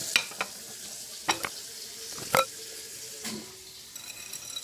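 Close-up eating sounds of sea grapes being chewed: faint wet crackling with a few sharp pops as the little beads burst, the loudest a little past halfway.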